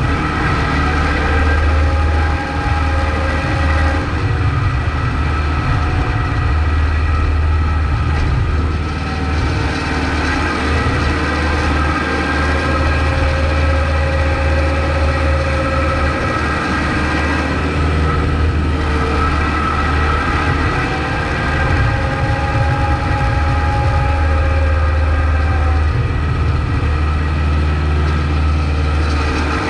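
Kubota MX5200 tractor's four-cylinder diesel engine running steadily while plowing snow, a deep drone with whining tones above it that slowly swell and fade.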